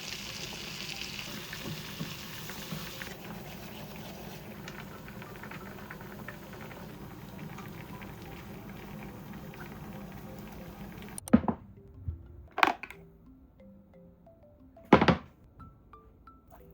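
Steady kitchen background noise that cuts off suddenly, followed by three sharp clunks of kitchenware set down over soft, plucked background music.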